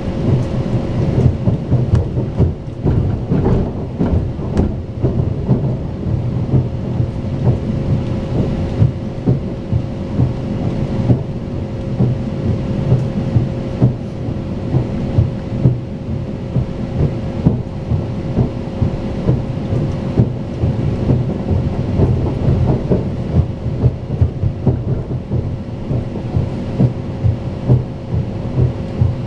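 Inside a fast passenger train at speed: a steady low rumble from the wheels on the track with a constant hum, broken by frequent short thumps.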